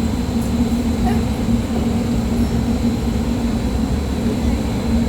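Steady rumble of fans driving strong wind in a windstorm simulator, with a constant low hum and a thin high whine.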